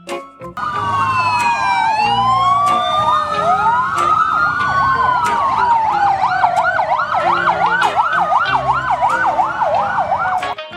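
Several sirens sounding together: slow wails gliding up and down, with a fast warbling yelp from about five seconds in. They start about half a second in and cut off just before the end.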